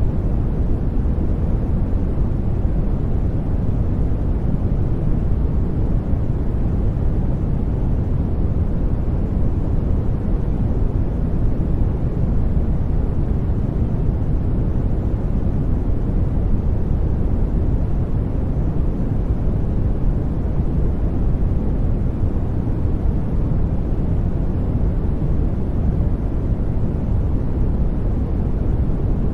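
Steady sleep noise: an even, deep hiss with most of its weight low down and no changes at all.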